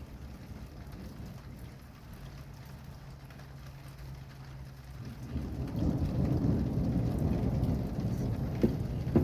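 Steady rain, with a low roll of thunder that swells about five seconds in and keeps rumbling. A couple of sharp clicks near the end.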